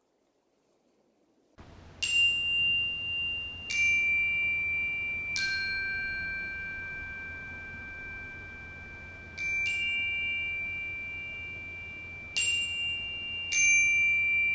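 Chimes struck one at a time, six strikes in all, starting about a second and a half in, on a few different high pitches. Each tone rings on clearly for several seconds and overlaps the next.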